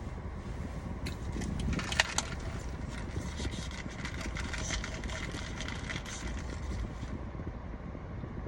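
A steady low rumble with scattered small clicks and crackles, one sharper click about two seconds in.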